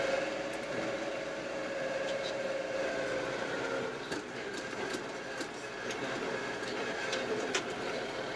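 Kioti RX7320 tractor's diesel engine running steadily with a whine, weaker after about four seconds, and a few light clicks.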